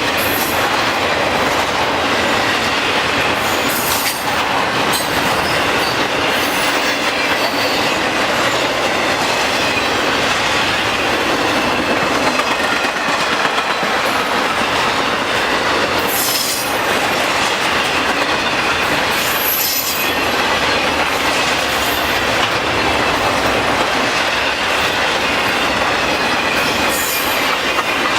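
Cars of a long intermodal freight train rolling past: a steady, loud rumble of steel wheels on rail, with a faint wheel squeal and a few brief sharp metallic screeches.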